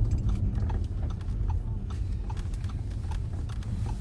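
A car's turn signal clicking steadily, about two clicks a second, over the low rumble of the engine and road inside the cabin.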